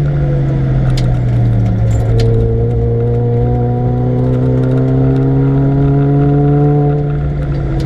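Supercharged Mini Cooper R53's 1.6-litre four-cylinder engine, fitted with a TVS900 supercharger, on track. The revs fall at first, then from about two seconds in the engine pulls steadily upward under load for several seconds and eases off near the end, with a few sharp clicks along the way.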